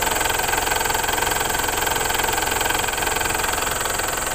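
Mitsubishi Montero Sport engine idling steadily. It has been run briefly with the radiator cap off and the drain plug out, to push the last water out of the cooling system during a radiator flush.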